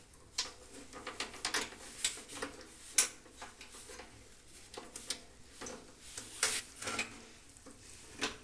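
Irregular small clicks, taps and scratchy handling noises as the microwave oven's power cable and its wires are fitted, with one sharper click about three seconds in.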